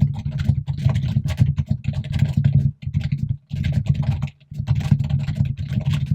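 Fast typing on a computer keyboard in quick runs of keystrokes, broken by two short pauses.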